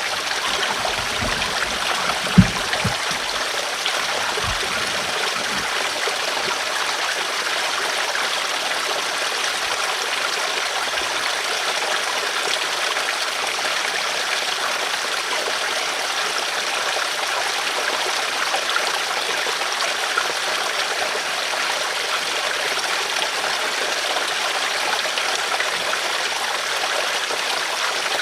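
River water flowing over rocks, a steady rushing babble. A few low thumps come in the first few seconds, with one sharp knock about two and a half seconds in.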